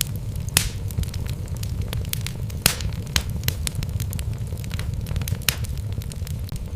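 Wood fire burning in a fireplace: logs crackling and popping in irregular sharp snaps, a few louder pops standing out, over a steady low rumble of the flames.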